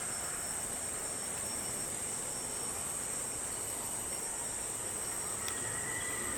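Steady high-pitched drone of forest insects over a soft background hiss, with a faint thin whistle near the end.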